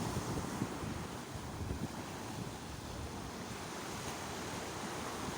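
Sea waves washing onto the shore in a steady surf, with wind rumbling on the microphone.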